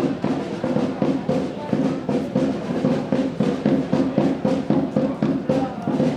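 Drums played in a steady, fast beat, with pitched tones sounding along with them.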